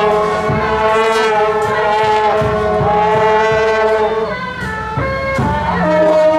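Shaojiao, the long brass horns of a temple procession troupe, blowing long held notes with several pitches at once that shift near the end, over a steady low drum beat.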